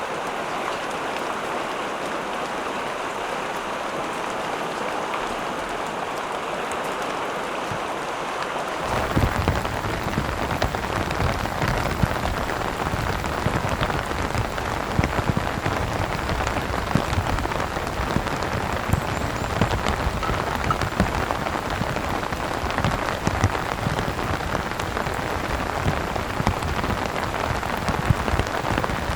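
Heavy rain falling steadily. About nine seconds in the sound changes abruptly to louder, closer rain, with dense drops striking a surface close by.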